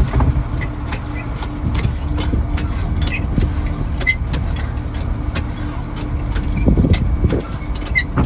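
Fishing trawler's diesel engine running steadily: a low drone with a constant hum, with scattered light clicks and knocks, and a brief swell in loudness about seven seconds in.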